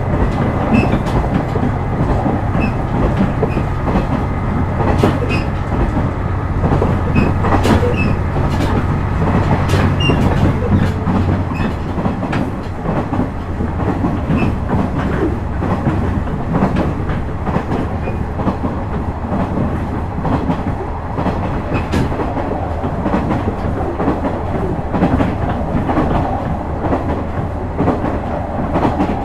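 JR West KiHa 126 series diesel railcar running: the underfloor diesel engine drones steadily, its note fading about twelve seconds in, while the wheels click rhythmically over rail joints.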